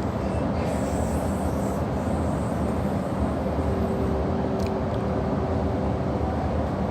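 Steady running noise inside a moving H set (OSCAR) electric suburban train: an even rumble and hiss, with a faint steady motor whine coming in about halfway through.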